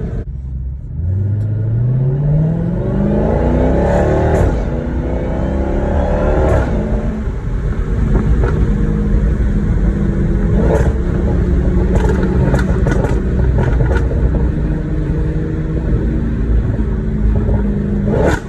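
Supercharged 6.2-litre V8 of a 2018 Dodge Charger Hellcat through a Corsa Xtreme exhaust, accelerating with a rising pitch over the first few seconds, then running on with sharp exhaust pops and crackles scattered through.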